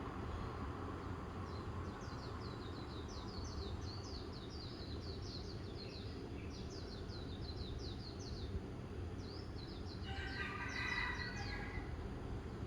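A songbird singing rapid runs of high, quick down-slurred notes, one long run, then a pause, then a second shorter run; about ten seconds in a lower, fuller bird call joins briefly. A steady low background rumble runs underneath.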